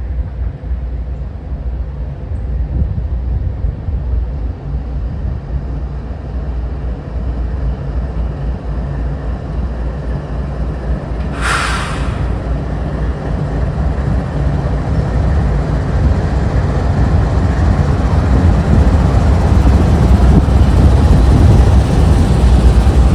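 Diesel train approaching, its low engine rumble growing steadily louder, with a short burst of hiss about halfway through.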